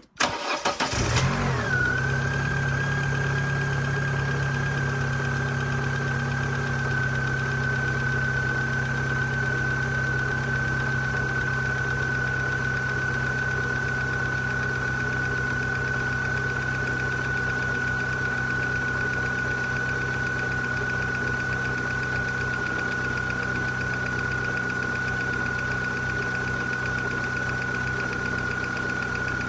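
2001 Corsa C 1.4 16V four-cylinder petrol engine starting warm, flaring briefly, then settling to a steady idle with a ticking sound and a steady high whine over the running engine.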